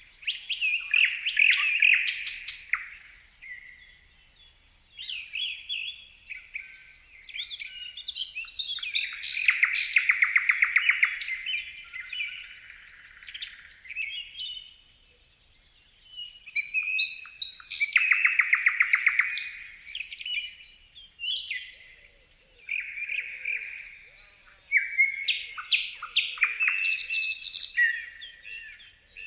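Several songbirds chirping and singing in short, high whistled phrases, overlapping one another. Two rapid trills, around ten seconds in and again around eighteen seconds in, are the loudest parts.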